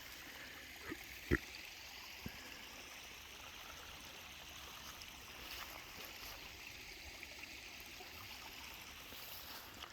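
Water running steadily in a stream after heavy rain, with a few brief faint clicks in the first two or three seconds.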